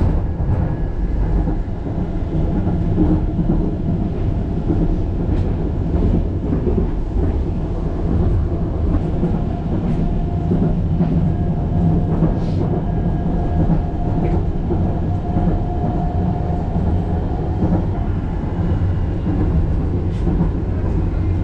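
Wuppertal Schwebebahn suspension railway running along its overhead track: a steady low rumble with faint clicks and a thin whine that comes up in the middle.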